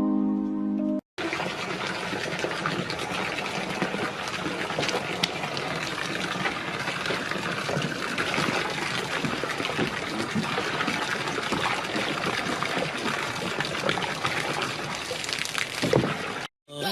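A second of music, then a steady, even rush of water-like noise with faint splashes, which stops abruptly near the end.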